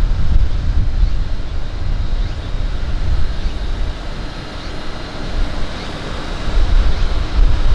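Wind buffeting the microphone: a low, gusting rumble that swells and drops irregularly, loudest near the end.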